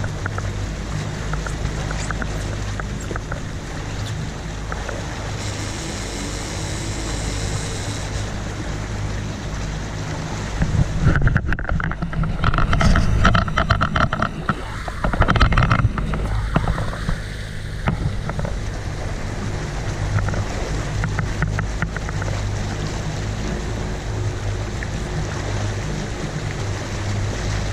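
Sport-fishing boat's engine droning steadily while trolling, with wind and rushing water. A louder, rougher stretch of water and wind noise comes about eleven seconds in and lasts several seconds.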